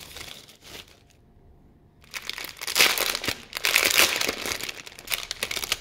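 Packaging crinkling and rustling as it is handled and unwrapped by hand: about a second of crinkling, a brief pause, then louder, busier crinkling for the rest.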